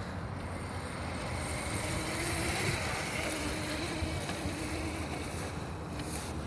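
Razor MX350 electric dirt bike riding, its motor and chain drive giving a faint wavering whine, under steady noise of wind on the microphone.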